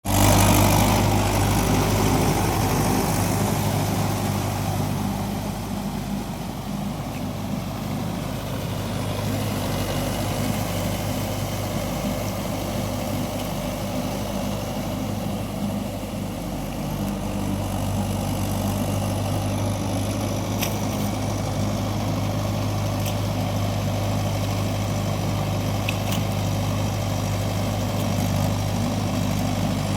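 Mahindra 575 tractor's diesel engine idling steadily, with a few faint clicks in the second half.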